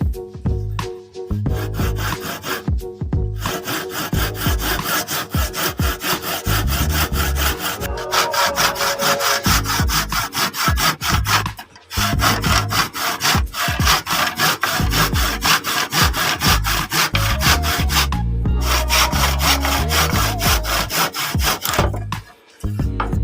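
Hand saw cutting in rapid back-and-forth strokes, broken by a few short pauses.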